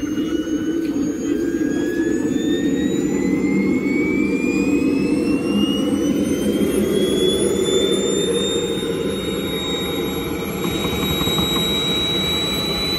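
Miniature turbine engine of a large radio-controlled model jet spooling up on the ground: a whine rises steadily in pitch over about eight seconds, then holds at one high pitch over a loud rushing jet noise.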